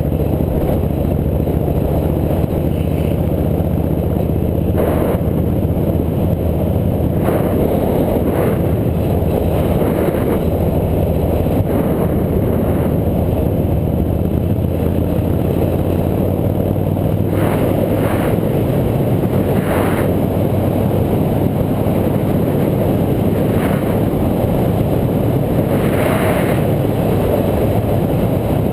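Motorcycle engine running at a steady speed under a constant rush of riding noise, heard from a mounted action camera. Several short knocks or rattles break in now and then, likely from bumps in the road.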